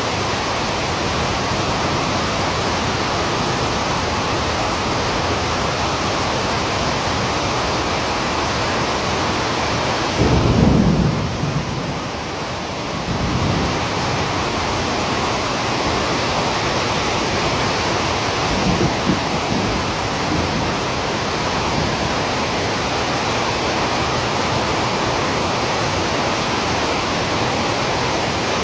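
Heavy rain falling steadily with a constant hiss. It is broken by a short, louder low rumble about ten seconds in and a fainter one about nineteen seconds in.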